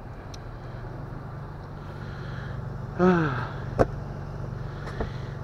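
Vehicle engine idling steadily. About three seconds in, a short, loud sound falls in pitch, followed by two sharp knocks about a second apart.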